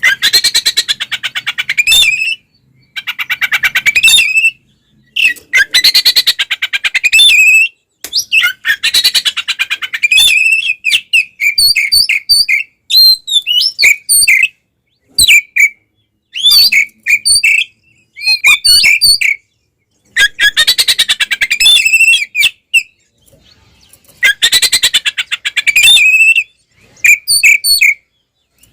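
Oriental magpie-robin (kacer) singing its loud, agitated fighting song: harsh rapid rattling phrases of about two seconds alternate with runs of clear whistled notes, separated by short pauses.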